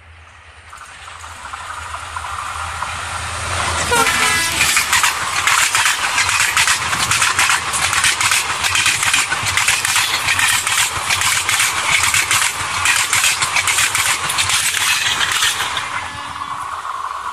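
Locomotive-hauled passenger train approaching and passing at speed. Its sound builds over the first few seconds, and the locomotive goes by about four seconds in with a falling pitch. A rapid clatter of coach wheels over the rails follows for about twelve seconds and eases off after the last coach passes near the end.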